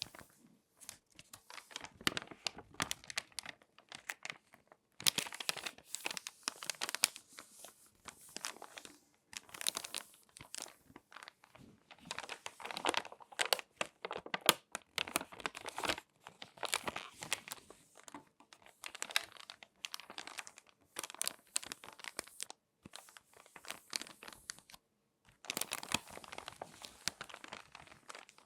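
Glossy magazine pages being folded and crinkled by hand, in irregular bursts of close crackling with short pauses between them.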